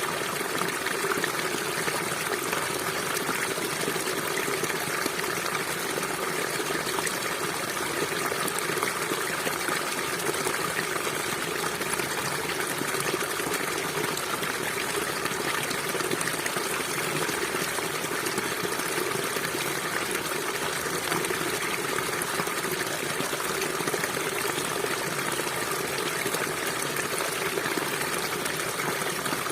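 River water flowing steadily, an even, unchanging wash of water noise.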